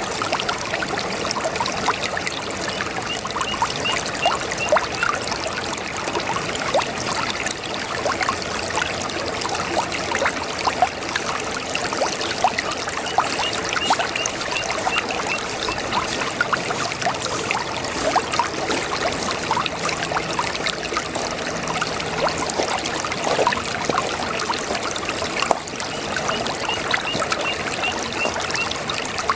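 A babbling brook: water running and gurgling steadily over stones. A short run of faint high chirps comes three times.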